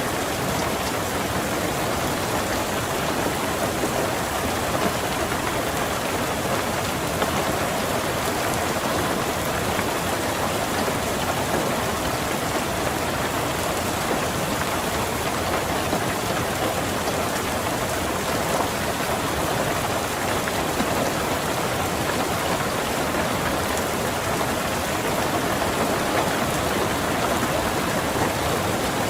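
Steady rain falling on a car, heard from inside the cabin, an even patter with no breaks or thunderclaps.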